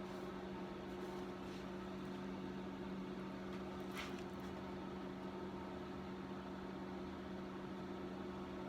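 Steady low electrical hum of shop background noise, a few even tones over a faint hiss, with one faint click about four seconds in.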